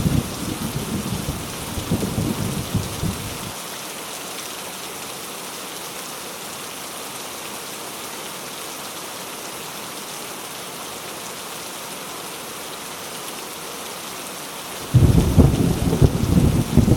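Heavy rain pouring steadily with a thunderstorm. Low thunder rumbles through the first few seconds and dies away. A new, loud peal of thunder breaks in suddenly near the end.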